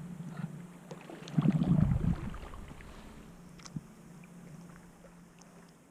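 Inflatable fishing boat moving on the water: a steady low hum under a burst of low rumbling water and wind noise about one and a half seconds in, which fades away over the next few seconds.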